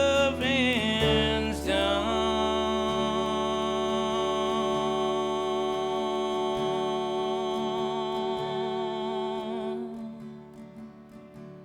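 Live Americana band with acoustic guitar: a male singer holds one long note for about eight seconds, and the music then drops to quieter guitar near the end.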